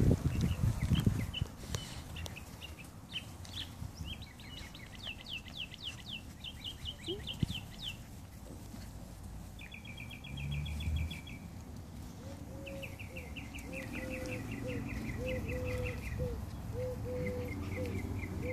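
Birds singing runs of rapid high chirping trills, several in a row, with a lower short call repeating about twice a second from past the middle. A loud bump right at the start.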